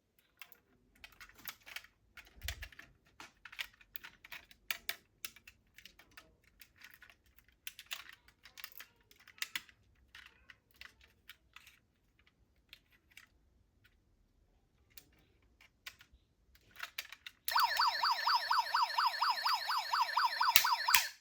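Small plastic toy cars clicking and clattering as they are handled. About 17 seconds in, a toy police car's electronic siren starts, warbling rapidly up and down, and cuts off just before the end.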